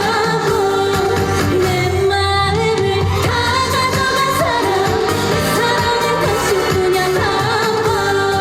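A woman singing a Korean trot song live over instrumental accompaniment, the music running steadily at full volume.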